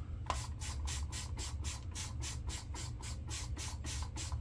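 Shaving brush being worked quickly against a soap or the face, a rhythmic scratchy swishing of about five strokes a second.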